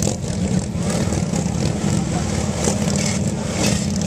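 Harley-Davidson Road King motorcycles' V-twin engines running at low speed, the engine note rising and falling as the riders work the throttle through the course.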